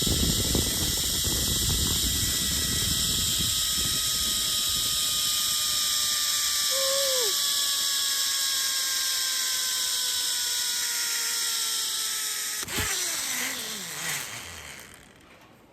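Zipline trolley pulleys running along the steel cable: a steady high whine whose pitch slowly falls as the rider slows, with wind rumble on the microphone in the first few seconds. A sharp knock comes near the end, after which the whine fades out.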